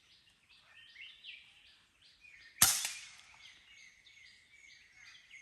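A single sharp shot, a crack about two and a half seconds in that fades over about half a second, over a background of short, repeated bird calls.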